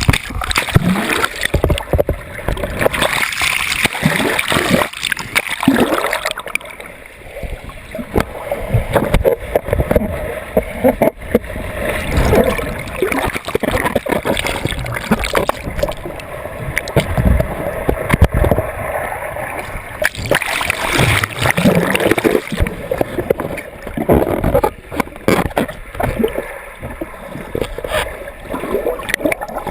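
Whirlpool water churning and splashing around a swimmer caught in it, loud and uneven, with repeated surges.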